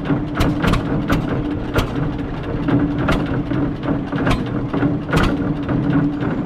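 John Deere 630 two-cylinder tractor engine running steadily, with sharp irregular ticks over its note that the owner takes for an exhaust manifold leak.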